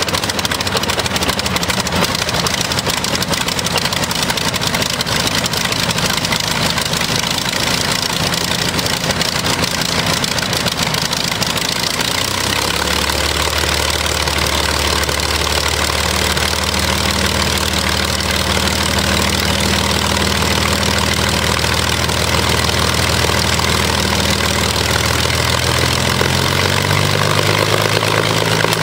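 Rolls-Royce Merlin 500-29 V12 aero engine running at low speed on a test run. Its note steps down to a lower, steady idle about halfway through and rises again near the end.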